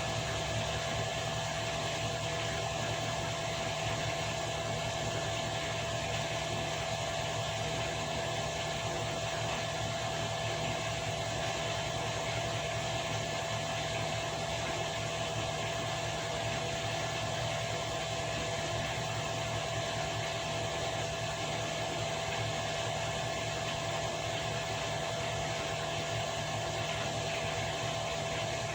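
Washing machine running steadily: a low motor hum with a constant whine and an even hiss.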